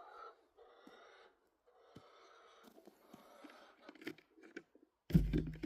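A person breathing audibly, several soft breaths in a row. About five seconds in, a sudden loud low rumble of handling or wind on the microphone.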